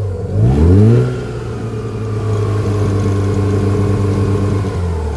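Mazda RX-7 FC's naturally aspirated 13B rotary engine revved up once, held at a raised steady speed for a few seconds, then dropping back toward idle near the end. The engine is still warming up and running a little rich.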